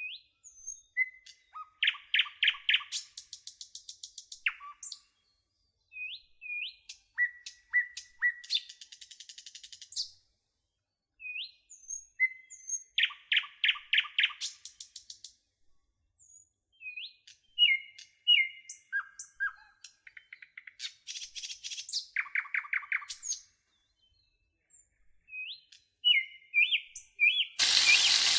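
Songbirds singing in repeated phrases of short rising notes, fast trills about a second long and whistled notes, with clean gaps between phrases. A steady hiss cuts in shortly before the end.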